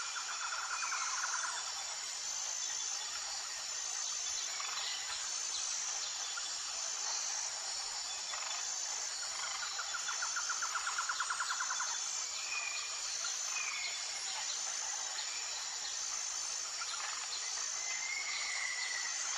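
Tropical forest ambience: a steady, high-pitched insect chorus that pulses evenly, with a rapid trill near the start and again about halfway through, and short bird whistles scattered through.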